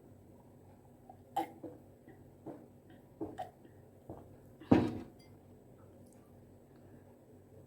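Close-miked mouth sounds of someone eating spicy tteokbokki rice cakes: a scattering of soft, wet chewing clicks and smacks, with one louder, longer mouth sound about five seconds in.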